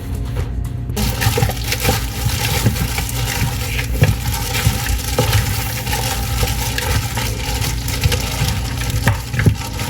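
Kitchen tap water running, turned on about a second in, with scattered knocks and clunks as raw chicken is handled and rinsed under it.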